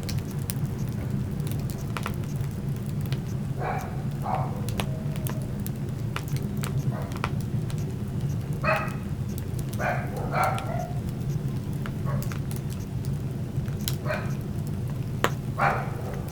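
Wood fire crackling in a fireplace: frequent sharp pops and snaps over a steady low rumble. Several short, pitched whine-like sounds come through at intervals.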